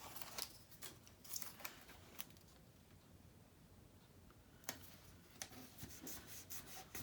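Faint handling of paper: short crackles and scrapes, a quieter pause in the middle, then more sharp crackles near the end.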